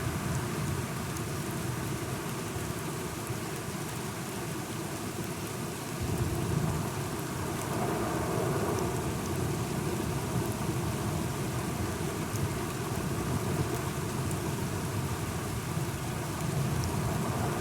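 Steady rain falling, with a low rumble of thunder that swells about six seconds in and keeps rolling under the rain.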